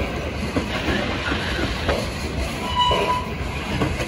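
Ethanol tank cars of a freight train rolling past, their steel wheels running steadily on the rails with scattered clicks. A short high squeal comes about three seconds in.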